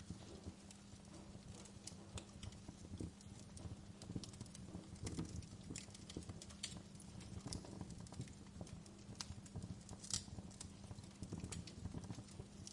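Wood fire crackling: irregular snaps and pops over a low steady rumble, with one sharper pop about ten seconds in.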